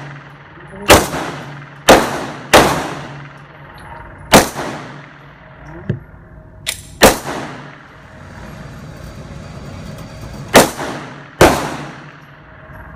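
Gunfire on a shooting range: about seven loud, irregularly spaced shots, each with an echoing tail, plus a couple of fainter shots around the middle.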